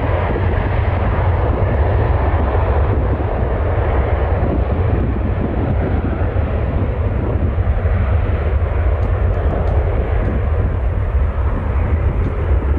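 Jet airliner engines running loud and steady, a deep rumble with a rushing noise over it.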